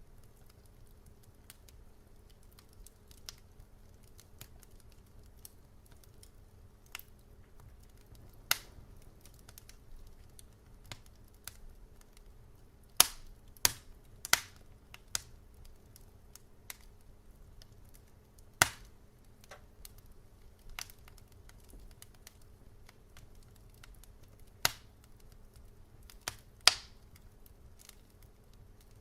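Fireplace fire crackling: irregular sharp pops and snaps over a steady low rumble, with a quick run of louder pops about halfway through and a few more near the end.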